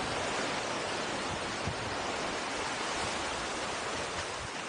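Steady, even rushing hiss of outdoor ambience with no distinct events, beginning to fade out near the end.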